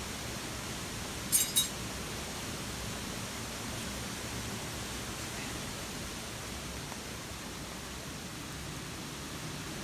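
Steady hiss of rain at a campsite, with two quick, bright clinks close together about a second and a half in.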